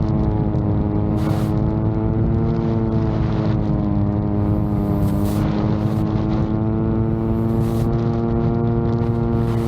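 VTOL drone's propellers running with a steady hum whose pitch wavers slightly as the motors adjust. Strong wind buffets the microphone with a constant rumble and short gusts every few seconds.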